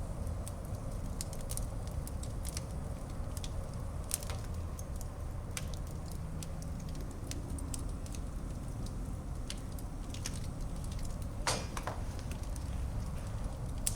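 Wood fire burning in a fireplace: a steady low rumble of flames with frequent sharp crackles and pops, one louder crack about two-thirds of the way through.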